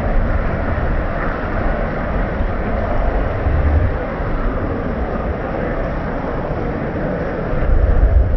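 Steady rain noise with a low rumble of wind on the microphone, the rumble getting louder near the end.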